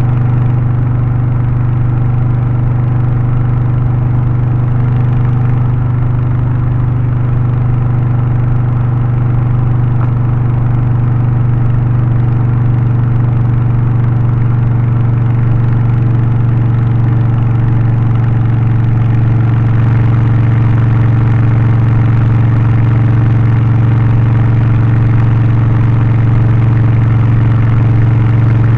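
Harley-Davidson Low Rider ST's Milwaukee-Eight 117 V-twin with a Stage 1 tune (aftermarket exhaust, air filter and remap) running at a steady engine speed. It gets slightly louder about two-thirds of the way in.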